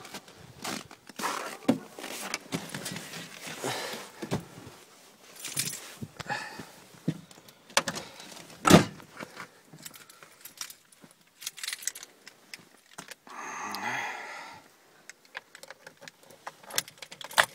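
Car keys jangling amid scattered clicks and knocks of handling, with one loud thump about nine seconds in and a short burst of hiss around fourteen seconds.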